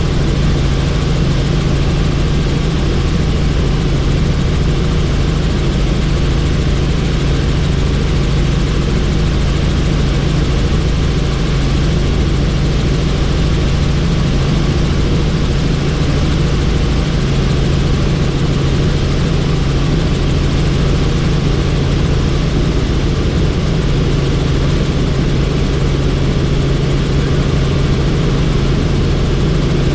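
Helicopter in flight with its doors off: a loud, steady drone of rotor and engine with rushing wind noise.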